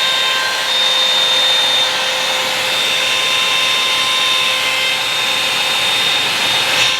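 Revlon One-Step hot-air brush dryer running steadily as it is worked through a section of hair: a loud rush of air with a high, steady motor whine.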